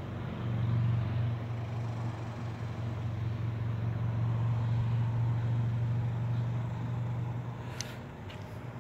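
A vehicle engine idling steadily, a low hum that swells and eases a little, with a couple of short clicks near the end.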